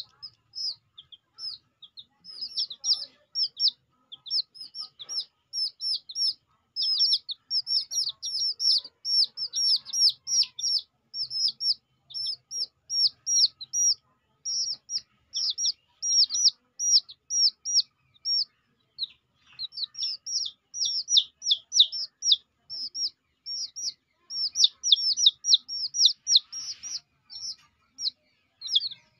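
Small birds chirping continuously: a dense run of short, high, downward-sliding chirps, several a second, with brief pauses.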